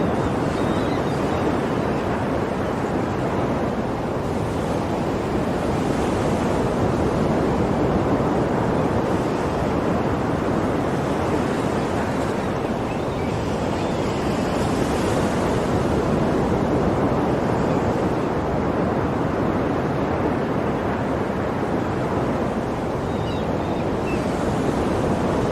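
Sea waves washing onto a shore: a steady roar of surf that swells a little every several seconds.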